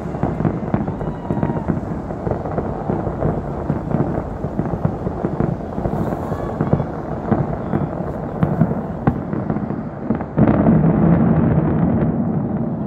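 Fireworks going off in quick succession: a dense, continuous crackle of many bangs and pops, growing louder for a couple of seconds about ten seconds in.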